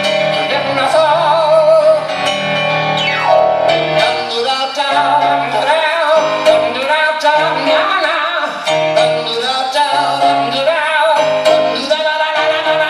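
Live rock band playing, with a sung line wavering in vibrato over electric guitar and drums.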